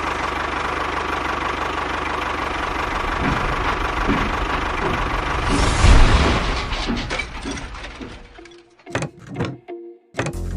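A small engine running steadily, louder for a moment about six seconds in, then dying away. A few sharp knocks follow near the end.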